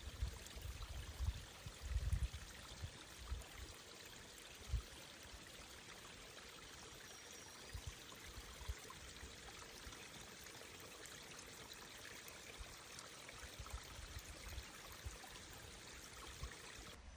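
Faint, steady rush of running water, with low thumps on the microphone in the first couple of seconds, once near the five-second mark and again near the end.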